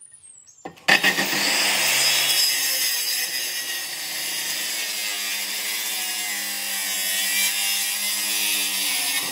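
Power saw cutting through wood in one continuous cut. It starts abruptly about a second in, runs steadily for about eight seconds and stops at the end.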